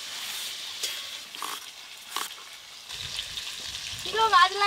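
Potato and cauliflower pieces frying in mustard oil in a pan over a wood fire: a steady sizzle with a few small clicks. A voice comes in near the end.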